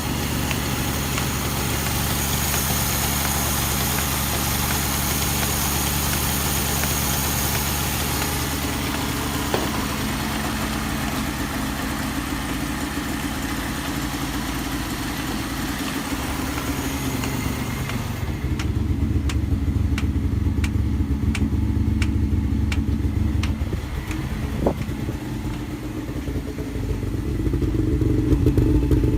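Suzuki LJ20 Jimny's two-stroke two-cylinder engine running steadily. For a few seconds in the middle there is a run of light, evenly spaced ticks, and the engine gets louder near the end.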